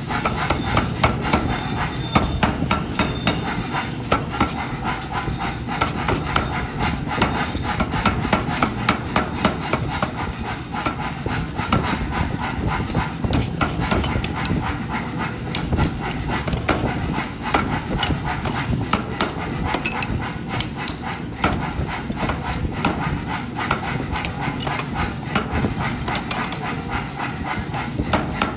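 Hammer blows on hot steel during forging: a quick, steady run of metal strikes, several a second, with rubbing and scraping between them.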